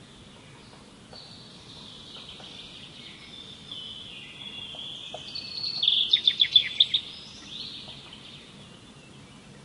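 Birds singing outdoors: a steady high-pitched chorus runs under a loud, rapid series of sharp chirps about six seconds in that lasts roughly a second.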